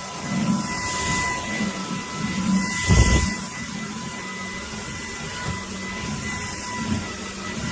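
JELLYPIG cordless stick vacuum running with a steady high whine over a rush of suction, and a low thump about three seconds in.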